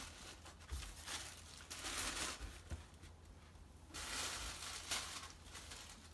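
Packing wrap around LEGO parts crinkling and rustling as it is handled and pulled open by hand, in several uneven spells with short pauses.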